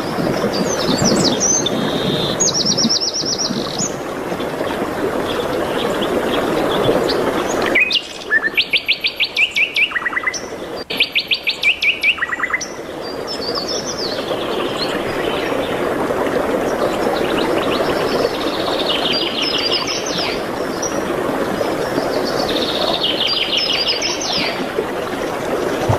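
Songbirds singing rapid trills of quickly repeated notes several times, over a steady rushing background noise. In the middle the background drops away for a few seconds while two loud trills ring out.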